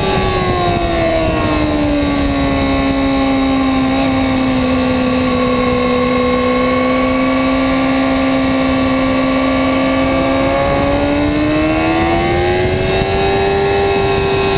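2008 Yamaha R6 inline-four sport-bike engine heard onboard at speed, with wind rush. The revs drop over the first two seconds, hold steady for several seconds, then climb again about ten seconds in and level off.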